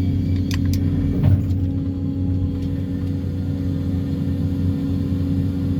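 Excavator engine and hydraulics running steadily with a low hum, with a few short sharp knocks between about half a second and one and a half seconds in.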